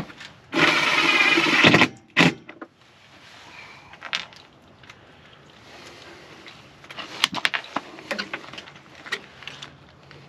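A power drill running in one loud burst of about a second, then a short second burst. Scattered clicks and knocks of tools and parts being handled follow.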